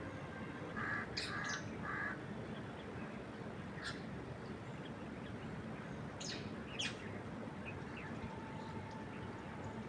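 Wild birds calling over a steady rush of wind in trees: three short harsh calls in quick succession about a second in, and several quick high chirps that sweep down in pitch scattered through the rest.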